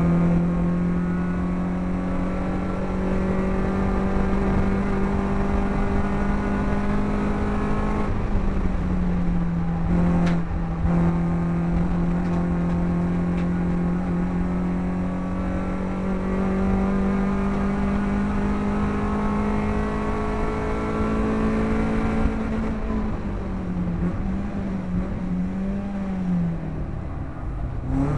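BMW race car engine heard from inside the cabin, running hard at high revs with road and wind noise beneath. The pitch climbs slowly, drops sharply about eight seconds in at an upshift, climbs again, then wavers and dips near the end as the throttle comes off and on.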